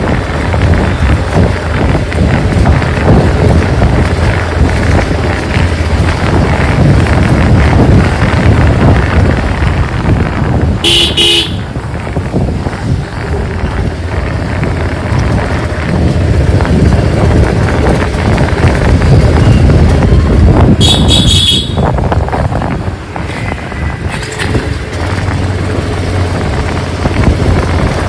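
Riding a motorcycle through city traffic: steady wind rush on the microphone over engine and road noise. A vehicle horn honks briefly twice, about a third of the way in and again about ten seconds later.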